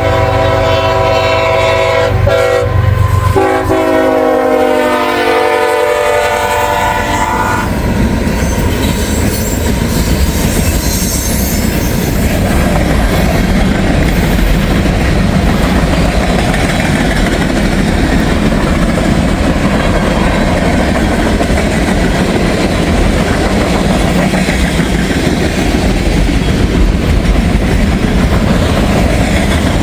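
Freight train passing close by: the locomotive horn sounds two long blasts, the second dropping in pitch as the engine goes past. Then the deep rumble of the locomotives and the steady clickety-clack of the cars rolling by.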